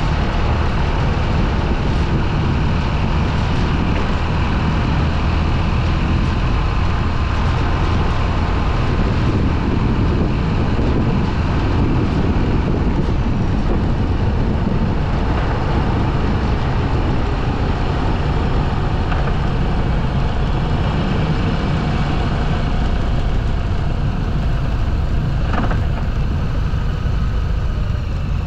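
Motorcycle on the move: steady engine drone mixed with heavy wind noise on the microphone.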